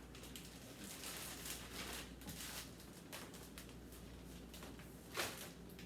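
Faint rustling and light knocks of plastic food packages and containers being handled, with a brief louder handling noise about five seconds in.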